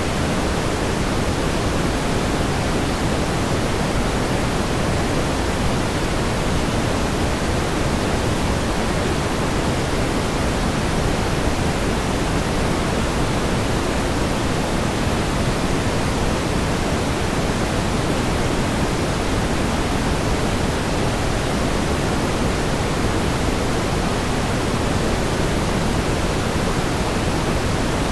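Steady pink noise: an even, constant hiss, heavier in the low end, with no changes or events.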